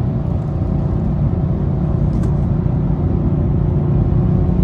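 BMW M4's twin-turbo straight-six running under way as the car is driven, a steady low drone that grows slightly louder near the end.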